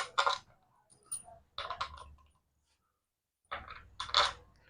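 Small metal parts clinking and clicking in short clusters: nuts and fittings being handled and set onto a motorcycle engine's clutch cover. The loudest clink comes about four seconds in.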